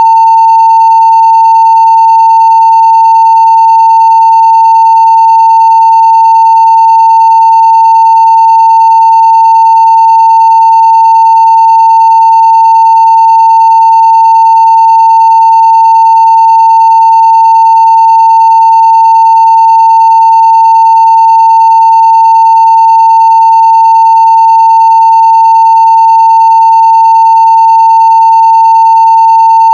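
A steady, loud 900 Hz sine-wave test tone at full scale, holding one unchanging pitch without a break.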